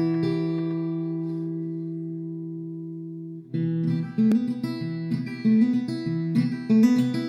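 Background music on acoustic guitar: a chord left ringing and slowly fading for about three and a half seconds, then picked notes start again.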